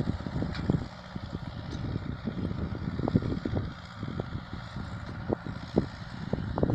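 Ford 6600 tractor's three-cylinder diesel running as it pulls a disc harrow, largely buried under strong wind buffeting the microphone in irregular gusts and jolts.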